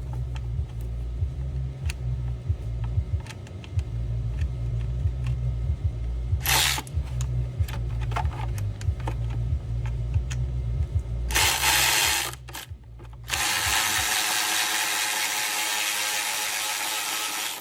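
A power tool runs in a short burst, then a louder one, then steadily for the last four seconds, with scattered clicks and clatter of tools over a low steady hum.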